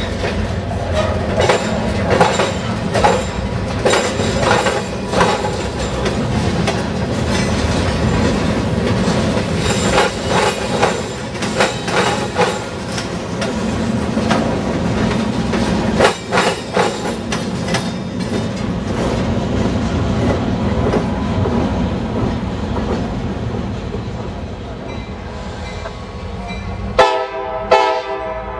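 Freight cars of a CSX train rolling over a railroad diamond crossing, the wheels banging and clacking over the crossing frogs in clustered strikes over a steady rumble. Near the end the sound cuts to a locomotive horn blowing briefly from an approaching Norfolk Southern diesel.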